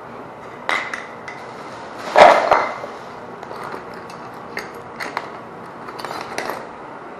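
Scattered metallic clicks and clatters from hand tools and wiring being handled, about half a dozen in all, the loudest a short clatter about two seconds in.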